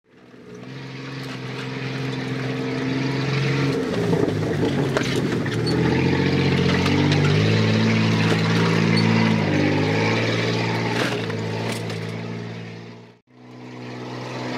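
Off-road 4x4's engine heard from inside the cab while driving a rough dirt track, its pitch stepping up and down with the throttle. Occasional knocks from the vehicle jolting over the ruts. The sound cuts out briefly near the end.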